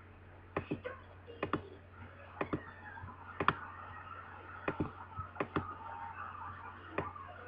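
Scattered sharp clicks and taps, roughly one or two a second at irregular spacing, over a faint background murmur.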